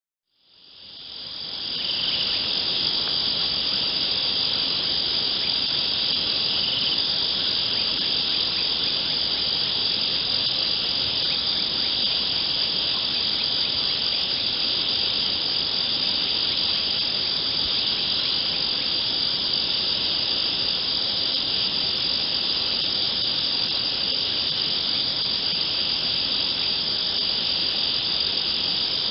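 A dense, steady chorus of crickets chirping at night, high-pitched and unbroken, fading in over the first two seconds.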